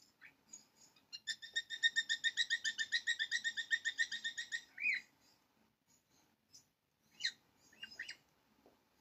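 A bird singing: a fast trill of evenly repeated chirps, about eight a second, starting about a second in and lasting some three and a half seconds. A few separate short chirps follow near the end.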